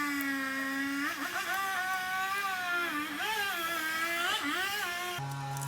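Chainsaw engine running, its pitch wavering up and down as the throttle is worked, then settling to a lower steady note about five seconds in.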